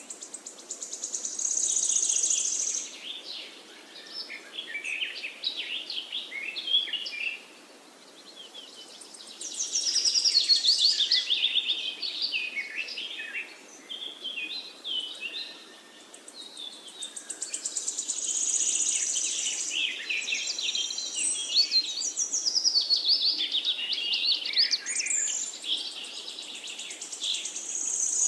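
Parakeets chattering: rapid high chirps and warbles in bursts, with short lulls between them.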